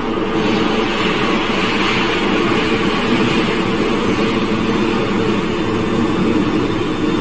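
Glasgow Subway train running on the rails: a loud, steady rumble with a thin, high wheel squeal.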